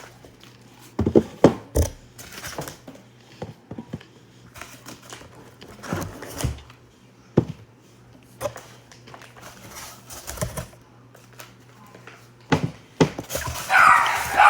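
Irregular knocks and thumps of things being moved and handled, over a faint steady hum; near the end a dog starts barking.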